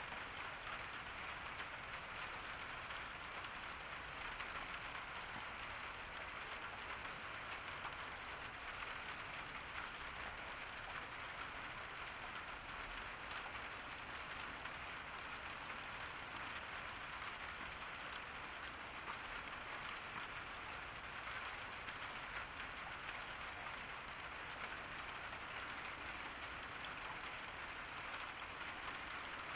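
Steady summer rain falling in a garden, an even hiss of drops pattering on surfaces.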